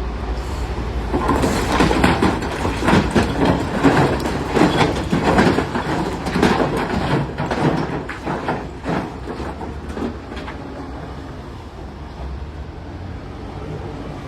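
Large quarry rocks crashing and clattering in a dense, irregular run for several seconds as a Caterpillar 966D wheel loader loads them, over a steady diesel engine hum. The crashes thin out in the last few seconds.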